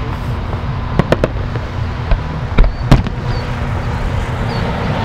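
Aerial firework shells bursting in sharp bangs: a quick cluster of three about a second in, then two more a little past the middle, over a steady low background rumble.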